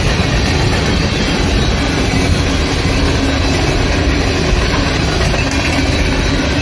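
Train passing, its wheels rolling steadily over the rails with a constant low rumble.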